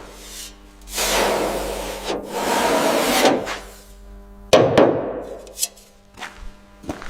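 Hand restoration work: two stretches of rubbing or scraping, then a sharp knock about four and a half seconds in, followed by a few light clicks.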